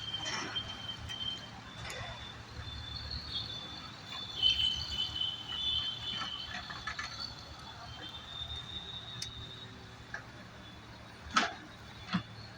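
Mini excavator working: a low engine hum under high squeaks from the arm and bucket, loudest about four and a half seconds in, with two sharp metal knocks near the end.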